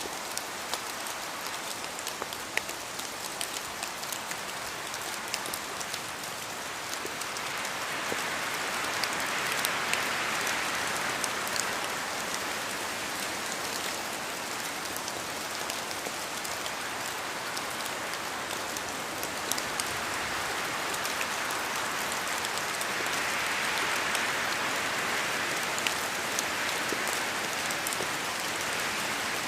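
Steady rain in a forest, with many drops ticking as they fall from the trees. A rushing of wind in the trees swells twice, about a third of the way in and again near the end.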